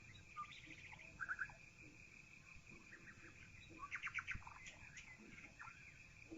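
Songbirds chirping faintly in short calls and quick trills, heard through a partly open window, with a burst of rapid chirps a little after halfway; a steady high-pitched tone runs underneath.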